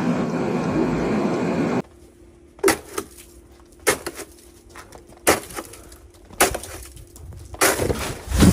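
A steady rumble that cuts off abruptly, followed by a series of about five sharp knocks a little over a second apart.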